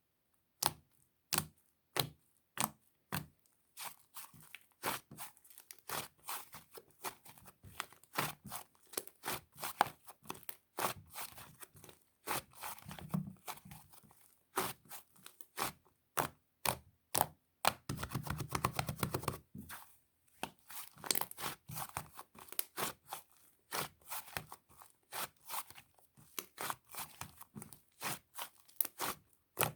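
Fluffy, sticky slime being pressed and pulled by hand, giving a steady string of sharp clicks and pops, with a denser stretch of crackling about two-thirds of the way through.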